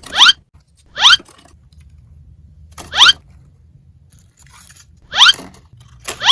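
Five short, loud squeaks, each rising quickly in pitch, at uneven intervals.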